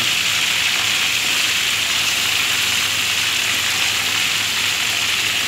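Pork slices frying in hot oil in a steel wok, a steady, even sizzle.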